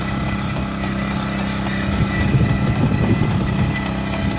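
Kubota tractor's diesel engine running steadily, growing louder and rougher for about a second and a half midway.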